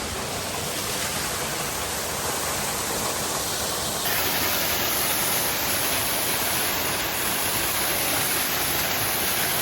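Small rainforest waterfall pouring into a creek pool: a steady rushing of water that gets slightly louder and hissier about four seconds in.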